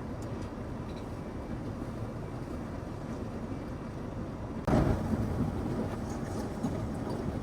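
Steady rushing cabin noise of a Boeing 787-9 airliner in cruise, from its engines and the air streaming past the fuselage. About two-thirds of the way through the noise suddenly grows louder and brighter, then settles at a slightly higher level with a few faint clicks.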